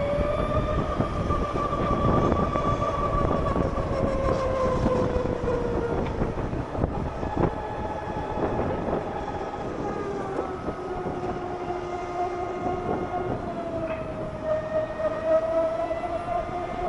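LiveWire One electric motorcycle's motor whining while riding, its pitch falling slowly over the first several seconds and climbing again near the end as speed changes. Heavy wind buffeting on the microphone runs underneath.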